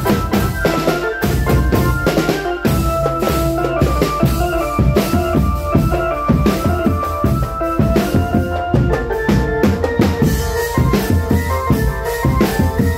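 Marching drum band playing, with snare and bass drums beating a dense, steady rhythm under a melody of held tones.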